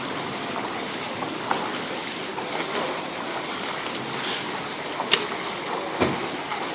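Steady rushing noise of wind and water, with a few short sharp clicks, the loudest about five seconds in.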